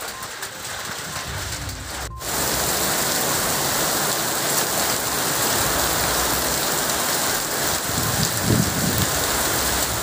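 Heavy rain mixed with hail pelting a wet paved road, a steady hiss. The sound drops out for an instant about two seconds in, then comes back louder and stays steady.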